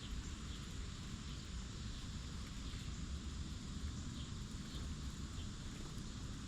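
Orchard ambience: a steady low rumble with faint, scattered short chirps of small birds.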